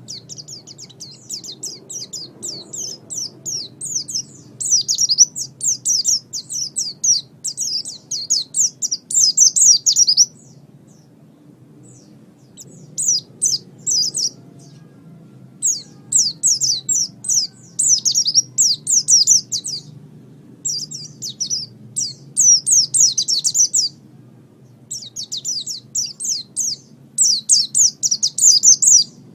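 White-eye (pleci) singing: long runs of fast, high chirping trills. The song is unbroken for about the first ten seconds, then comes in shorter phrases separated by brief pauses.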